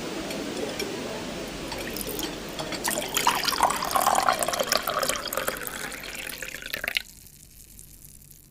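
Water running and splashing, as from a tap into a sink, growing busier partway through and then cutting off suddenly about seven seconds in.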